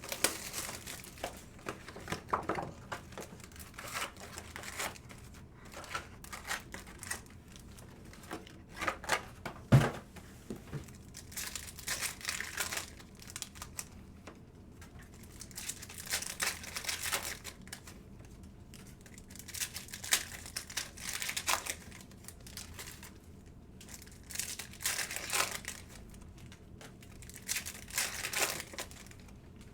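Crinkling and tearing of plastic and foil wrappers as a Topps Chrome hobby box and its card packs are ripped open, in irregular bursts with short pauses. There is a single sharp knock about ten seconds in.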